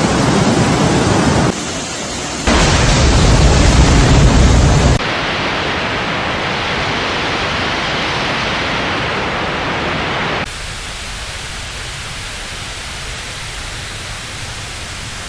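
Loud, steady rushing noise of floodwater and heavy rain, heard as a string of clips that cut abruptly from one to the next. It is deepest and loudest from about two and a half to five seconds in, and quieter and thinner from about ten seconds in.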